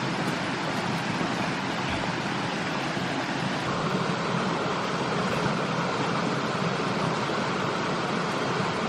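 Steady rushing noise that grows a little louder and brighter about four seconds in.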